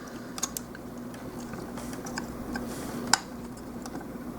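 Plastic parts of a Gundam model kit clicking as the assembled figure is handled, with a few light clicks near the start and one sharper snap about three seconds in, over a faint steady hum.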